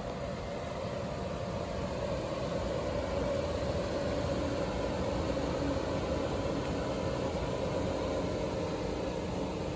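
Mercedes-Benz GLS 450's twin-turbo V6 idling steadily, with an even hiss over it.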